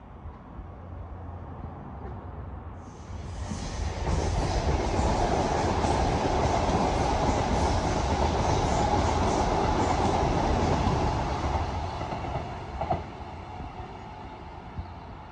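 A train passing along the track: the rumble and rush of wheels on rail build up, hold loud for about seven seconds with a clatter over the rail joints, then die away. A single sharp knock comes near the end.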